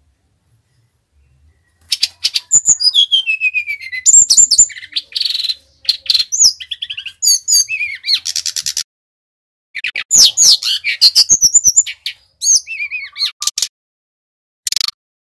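Sikatan rimba dada coklat (brown-chested jungle flycatcher) singing. Rapid runs of high whistled notes, many sliding downward, mixed with fast trills. The song comes in two long bouts with a brief pause between them, then a short burst near the end.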